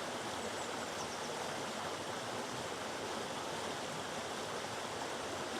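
Steady rushing of a river running over boulders and a waterfall.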